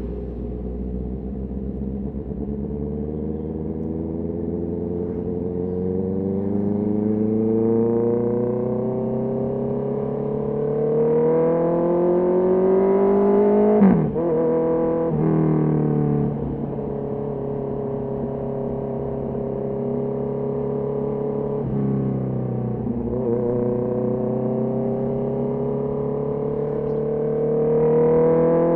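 Honda CB650R's inline-four engine pulling under acceleration, its pitch climbing slowly for about fourteen seconds before dropping sharply at a gear change. It runs steadier, dips briefly, then climbs again, and drops at another shift right at the end.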